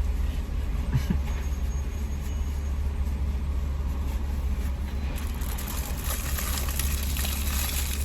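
A steady low engine rumble, with a hiss growing louder about five seconds in.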